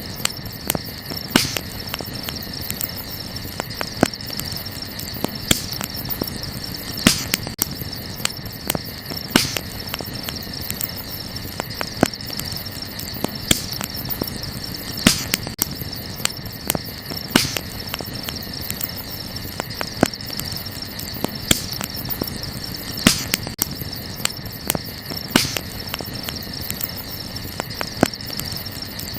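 Wood campfire crackling, with irregular sharp pops (a louder snap every second or two and smaller ticks between), over a steady high chirring of crickets.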